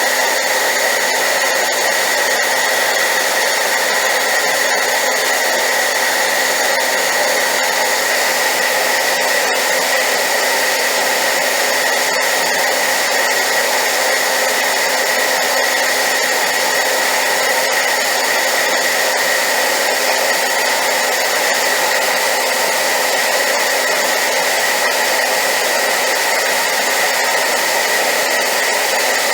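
Hair dryer running steadily on high power, a loud, even rush of air with a steady whine from its fan motor, used as white noise.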